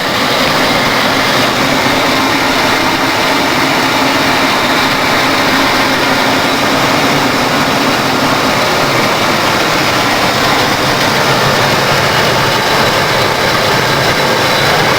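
1992 Ford Crown Victoria's 4.6-litre V8 idling steadily under the open hood, in its first minutes after a cold start following a week of sitting.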